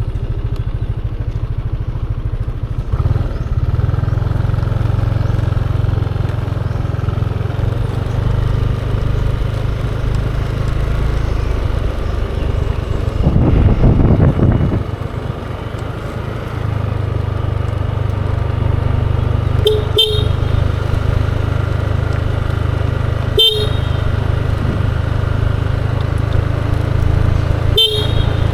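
Steady running of a Yamaha Aerox 155 scooter with road noise, rising to a louder rush about halfway through, and three short vehicle horn toots in the second half.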